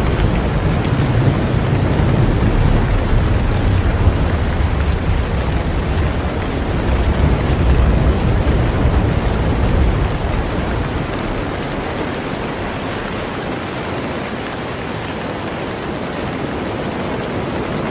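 Heavy rain falling steadily on a boat, a dense even hiss. A deep low rumble underlies the first half and fades away about ten seconds in.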